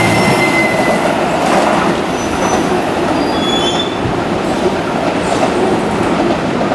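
Tobu 10030-series electric train, two sets coupled, running through on the rails with a steady rumble of wheels on track. A high steady wheel squeal fades out about a second in, and a few short, higher squeals follow a little later.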